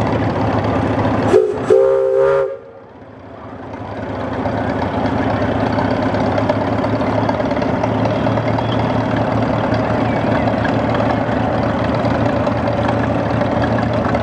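Steam traction engine whistle blown twice: a short toot, then a blast of about a second. After a brief dip, steady engine running continues underneath.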